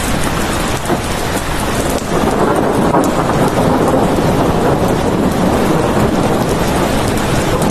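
Steady heavy rain, a dense even hiss that grows fuller and deeper from about two seconds in.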